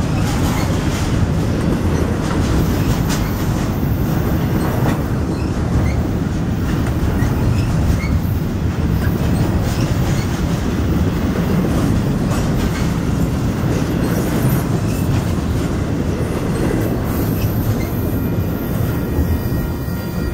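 Double-stack container well cars of a freight train rolling past: a steady rumble of wheels on rail with clacks over the rail joints and, at times, a faint high wheel squeal. The sound eases off near the end as the last car goes by.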